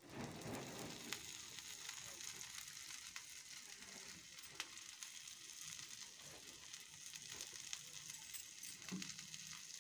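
Faint sizzling of tita saag (bitter greens) fritters shallow-frying in oil on a hot pan as oil is drizzled around them, with a few light ticks and crackles.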